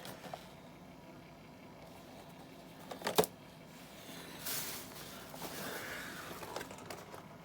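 Handling noises of a toy diecast model being picked up and put down: a sharp click about three seconds in, then softer rustling.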